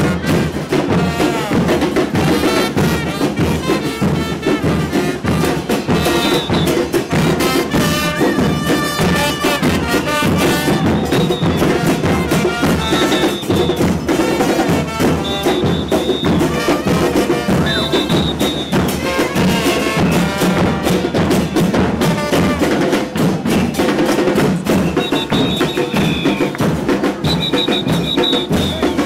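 Loud live carnival percussion: a drum group beating a steady, driving rhythm, with short high held notes sounding again and again over it from about six seconds in.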